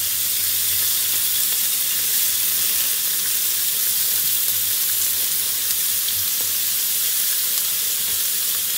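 Chicken kebab skewers frying in a little cooking oil on a flat tawa, sizzling steadily with an even hiss.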